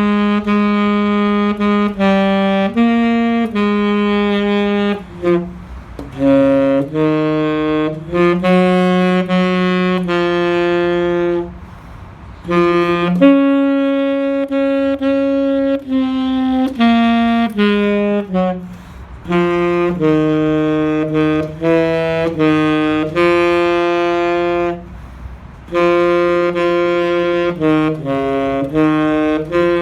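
Saxophone playing a melody of sustained notes, in phrases broken by short pauses.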